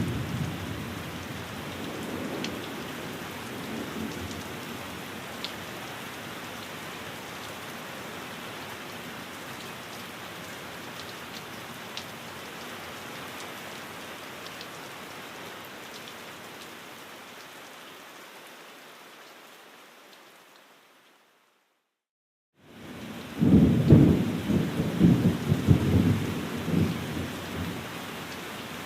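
Steady rain falling on a window, with thunder rumbling in the first few seconds. About three quarters of the way through, the rain fades out to a brief silence, then returns with a loud, rolling thunder rumble.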